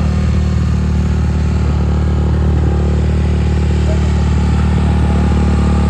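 Dirt bike engine running steadily at an even speed, with no revving.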